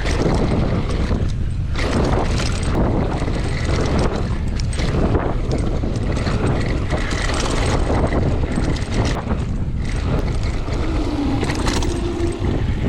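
Mountain bike ridden fast down a dirt trail: steady wind buffeting on the microphone, with tyre noise and the bike rattling over rough ground.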